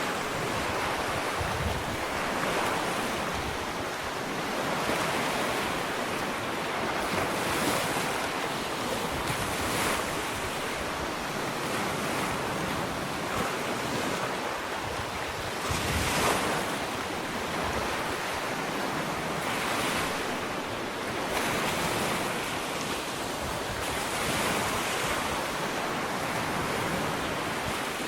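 Gentle ocean waves washing onto a sandy beach, a steady surf hiss that swells and ebbs every few seconds, with one stronger wave about halfway through. Some wind on the microphone.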